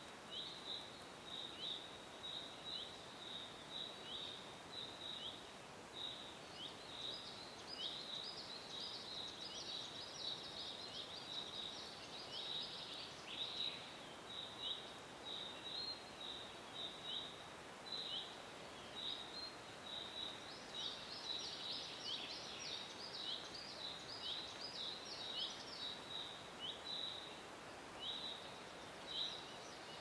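Small birds chirping in a forest: short, falling chirps about two a second, thickening into busier chatter twice, over a steady soft hiss.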